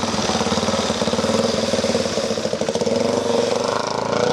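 Motorcycle engine running steadily, with a fast, even firing beat.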